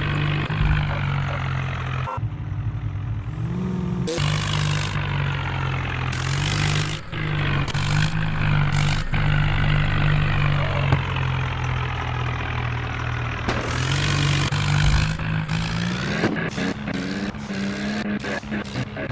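Tractor diesel engine running hard under load, its pitch rising briefly about four seconds in and climbing again near the end as it revs up, with several short bursts of rushing noise over it.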